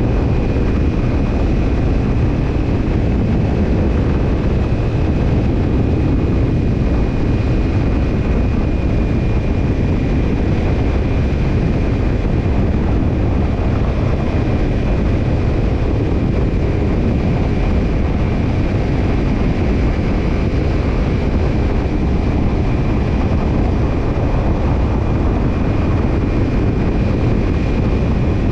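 Kawasaki Ninja 250 parallel-twin exhaust through a BEET Nassert Evolution Type II titanium slip-on muffler, running at an even engine speed with no revving, mixed with wind and road noise. A thin, steady high whine sits over it.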